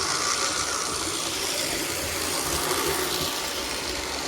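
Lionel 1666 toy steam locomotive running steadily in reverse on its track: the electric motor and gearing whirring and the wheels rumbling on the rails.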